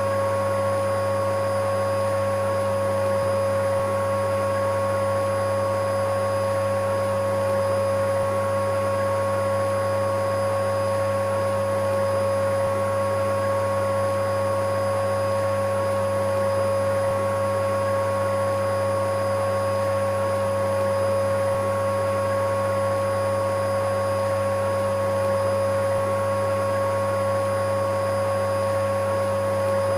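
Electric vacuum cleaner running continuously: a steady motor whine over a constant rush of air, with no change in pitch or level.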